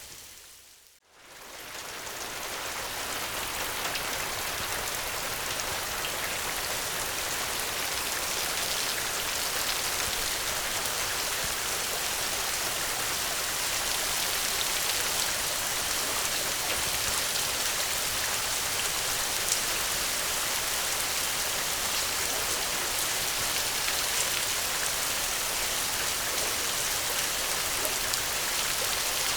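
Steady heavy rainfall, a dense even hiss with a few faint sharp ticks. About a second in it fades briefly to near silence and swells back up over the next few seconds.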